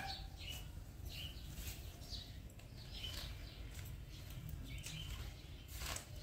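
Scattered short, high bird chirps over a steady low rumble of background noise, with a single knock near the end.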